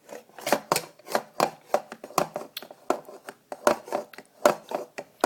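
Spoon and dishes clattering at a meal: a quick, irregular run of sharp taps and knocks, about three to four a second.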